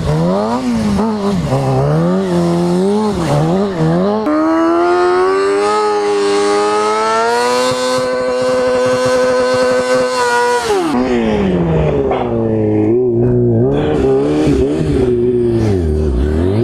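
Kawasaki ZX-6R sport bike's inline-four through a full aftermarket exhaust, revved up and down quickly for the first few seconds, then pulling up to a steady high note held for about six seconds. Around eleven seconds in the revs drop off sharply, then rise and fall again at a lower pitch.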